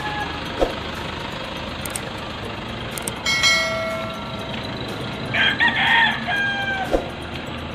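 A rooster crowing twice, about three seconds in and again about five seconds in, over steady road noise.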